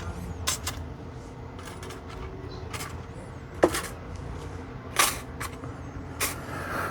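Scattered light clicks and taps of small battery-building parts being handled and set down, about seven sharp ticks spread unevenly over a faint steady low hum.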